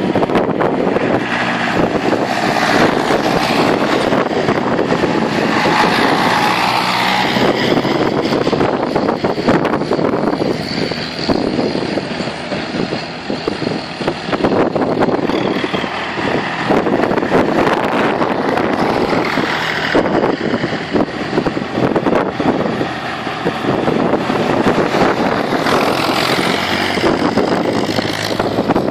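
Tractor engines running, the sound swelling and easing over the stretch.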